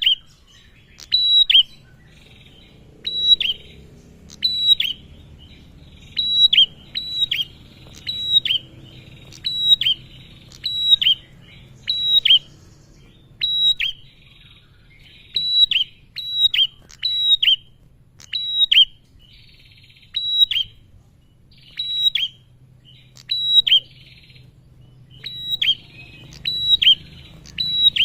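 Male prenjak (prinia) calling: short, sharp, high chirps that drop quickly in pitch, given in quick pairs and triples about once a second, with brief buzzy trills between some of them. It is the territorial call of a visiting male, played as a lure to start other prenjak calling.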